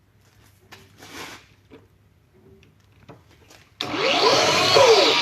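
A few faint knocks of workpiece and tool handling, then about four seconds in a shop power tool's electric motor switches on abruptly and runs loudly, its whine rising and then falling within about a second before it starts winding down. It sounds crappy to the machinist.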